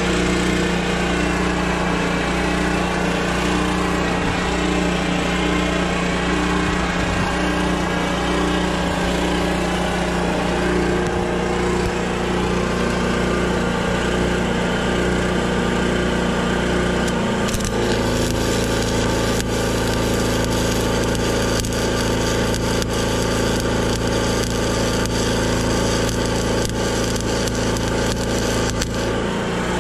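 Diesel engine of a heavy logging machine running steadily under work. About halfway through the engine speed steps up and holds at the higher pitch.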